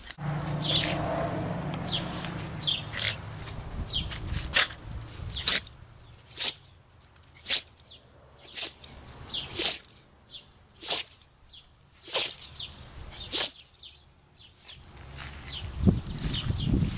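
A small dog, a Maltese, sneezing over and over: a dozen or more short, sharp sneezes about a second apart, which the owner puts down to allergies.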